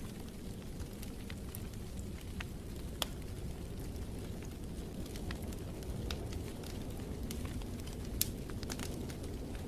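Wood fire burning in a fireplace: a steady low rush of flames with scattered sharp crackles and pops, two of them louder, about three seconds in and about eight seconds in.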